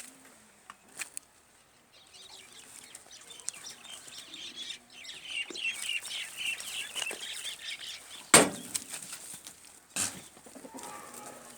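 Birds calling in a busy chatter, with two sharp knocks about two thirds of the way through and again shortly after.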